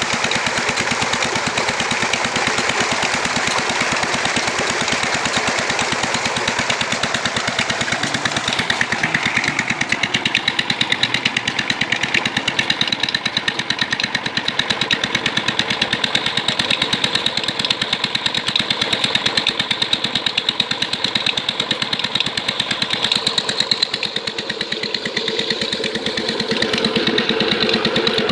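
Petter diesel engine running with a rapid, even stream of exhaust beats, its tone shifting slightly about a third of the way through.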